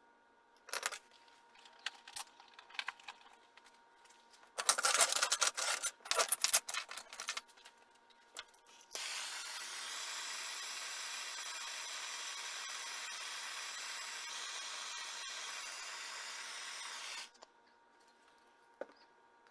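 Metalworking in a workshop: a few light clicks and taps, then about three seconds of loud, irregular scraping and rasping on metal. A small power tool or machine then runs steadily for about eight seconds and stops suddenly.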